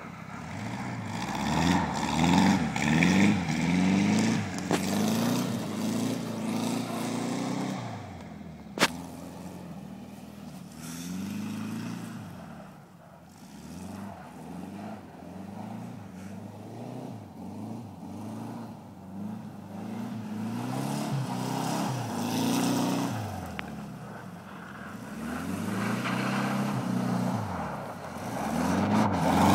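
Classic Volkswagen Beetle's air-cooled flat-four engine revving up and falling back over and over as the car slides around in snow. It is fainter in the middle while the car is far off, and louder again near the end. A single sharp click comes about nine seconds in.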